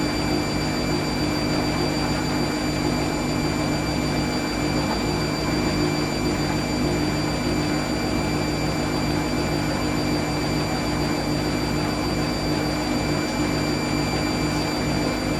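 Hoover AAA160 washing machine spinning at a steady speed during an intermediate spin between rinses: an even, unchanging hum with high whining tones over the rush of the drum.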